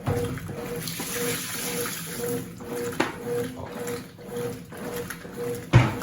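Consul CWC 8 kg top-loading washing machine agitating a bedspread while more water pours into the tub, strongest in the first couple of seconds. The motor hum cuts in and out two to three times a second with the agitator's back-and-forth strokes, and there is a loud thump near the end.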